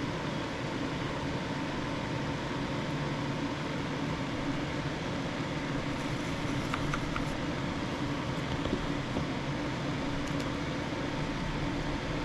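Steady fan-like mechanical hum, with a few faint light clicks partway through.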